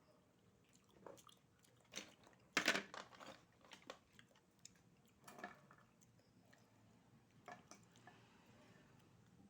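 Someone eating oysters close to the microphone: scattered short crunching and clicking sounds, the loudest cluster about two and a half seconds in.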